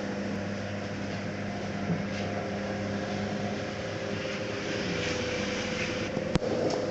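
Electric mixing machine running steadily with a constant motor hum. A single sharp click comes near the end.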